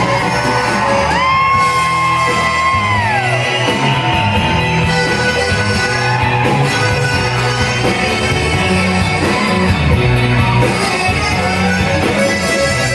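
A live Tex-Mex band playing an instrumental passage, with a lead line holding a long high note that slides down about three seconds in, over a steady bass and drum beat.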